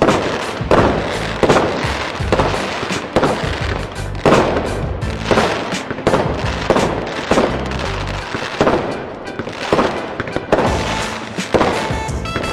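Fireworks going off in a rapid string of bangs, roughly one or two a second, each trailing off, with music underneath.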